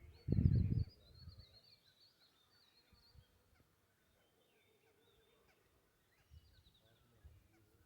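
A flock of parrots calling: a run of rapid high chirps for the first few seconds, then fainter scattered calls. About half a second in there is a brief loud low rumble on the microphone.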